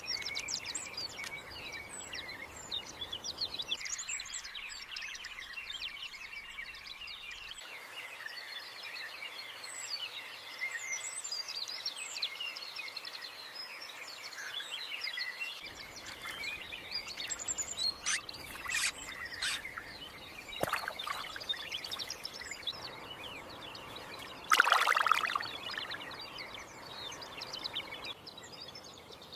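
Small birds chirping and twittering, many short overlapping calls forming a continuous birdsong background. A few sharp clicks come about two-thirds of the way in, and there is a short, louder burst near the end.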